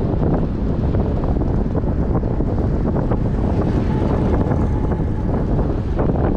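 Strong wind buffeting a GoPro's microphone on a moving bicycle: a loud, steady low rumble with flickering gusts.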